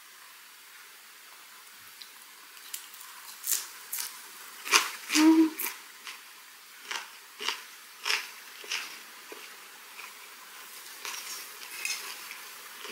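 Close-up chewing of a seaweed-wrapped herring gwamegi bite with raw chili and garlic: a string of wet mouth smacks and small crunches, irregularly spaced.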